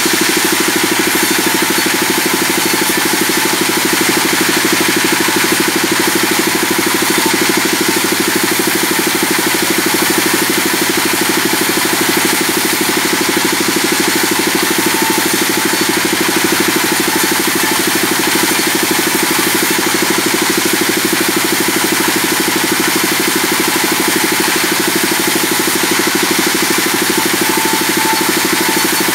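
Sawmill band saw running with a steady mechanical drone.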